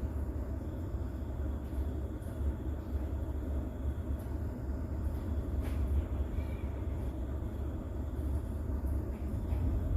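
Steady recorded rain mixed with a low, even rumble underneath, with no distinct thunderclaps.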